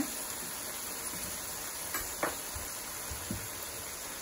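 Boneless chicken pieces sizzling steadily in ghee in a wok, with a couple of faint clicks about two seconds in.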